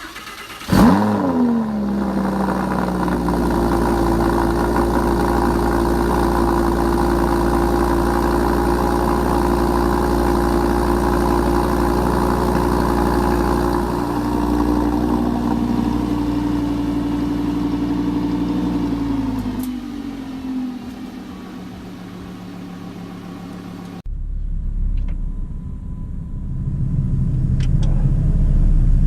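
Lamborghini Huracán LP610-4's V10 starting up: a sharp flare of revs about a second in that quickly falls to a steady fast idle. After about twenty seconds the idle drops lower, and after a sudden change a lower car rumble builds louder near the end.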